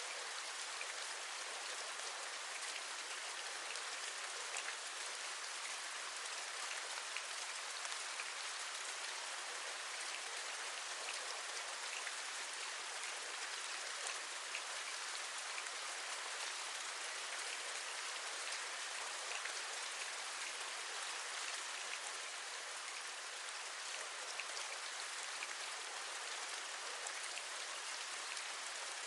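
Steady rain, with a continuous hiss and many small drop ticks, like raindrops tapping on a window.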